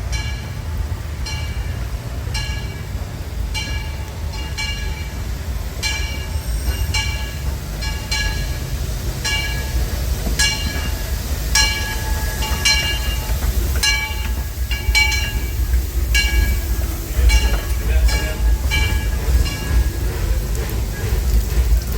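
Disneyland Railroad passenger train rolling along the track, its wheels clicking over rail joints with a short metallic ring over a low rumble. The clicks come about once a second at first and quicken midway as the train picks up speed.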